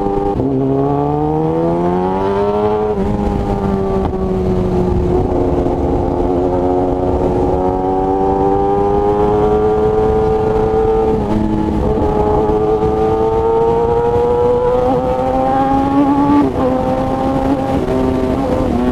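Kawasaki ZX-10R inline-four with an SC Project aftermarket exhaust, under way and pulling through the gears. The engine note rises, drops sharply on a gear change about three seconds in, then climbs slowly again, with smaller dips later on.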